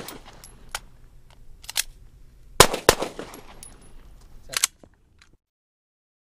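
A handgun fired twice in quick succession, about two and a half seconds in, with a few lighter clicks before and after the shots.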